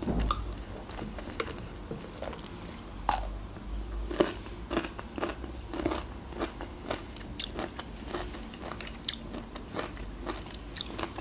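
Close-miked chewing of food, mouth clicks and smacks coming irregularly, a couple a second.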